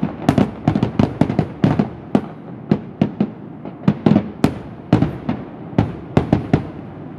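Fireworks finale: many sharp aerial shell bangs in quick, uneven succession, thinning out and growing quieter after about six seconds.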